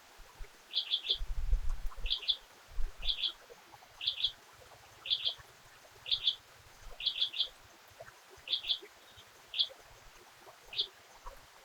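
A bird calling in short groups of two or three high chirps, about once a second, thinning to single chirps near the end, over a faint steady hiss, with a brief low rumble about one to three seconds in.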